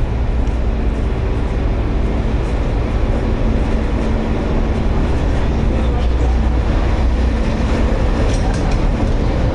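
Steady low rumble of a vehicle running, with a faint steady hum under it and no distinct knocks or changes.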